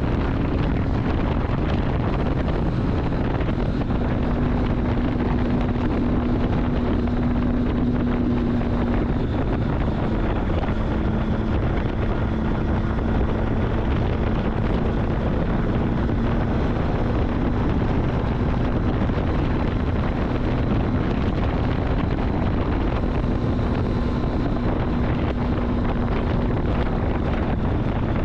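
Triumph Street Triple's inline three-cylinder engine running at a steady cruise, its note shifting slightly in pitch a few times, under heavy wind rush on the microphone.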